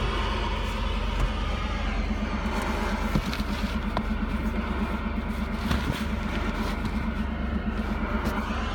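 Chevy truck engine running steadily, a low hum with a light pulsing beat and a few faint clicks.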